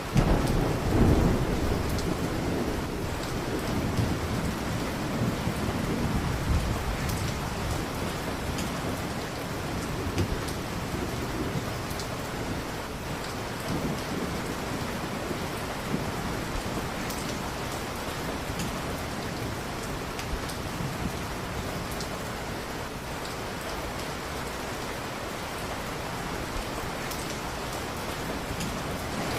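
Steady heavy rain, with a low rumble of thunder swelling in the first couple of seconds and fainter rolls later. Scattered sharp crackles from a wood fire sound over the rain.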